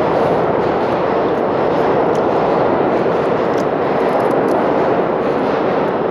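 New York City subway train running through the station: a steady, loud rumble of wheels on rails.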